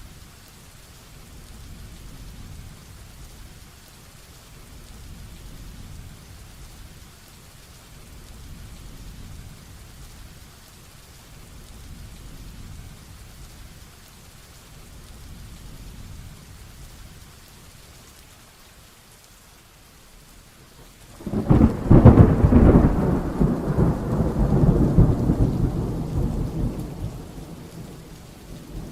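Heavy rain falling steadily, then a loud clap of thunder about three-quarters of the way through that breaks suddenly and rolls on, rumbling for several seconds before fading away.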